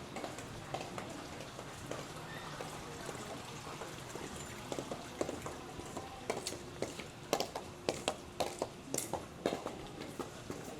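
Footsteps with hard, sharp clacking strikes on pavement, sparse at first, then louder and closer together from about halfway through, like several people walking. Underneath is a faint steady hiss and hum.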